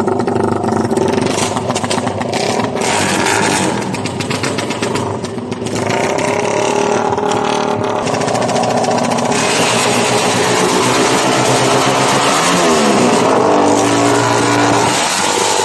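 Motorcycle engines revving hard against each other in an engine-revving contest, the pitch rising and falling with the throttle. The revs dip briefly partway through, then are held high from about six seconds in, with pitch swings near the end.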